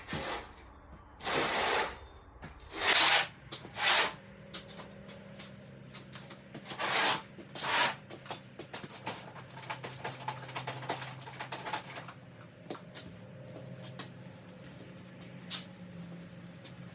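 Short hissing bursts of paint spray, about six in the first eight seconds, then only small clicks, over a low steady hum.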